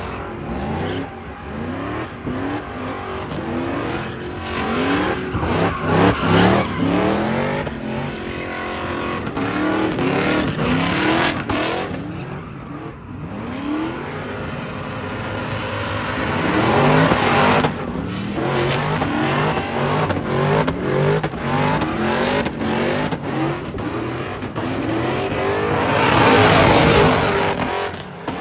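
A car engine revving hard, its pitch climbing again and again as it is pushed, with tyres squealing and skidding in two loud stretches, the loudest near the end.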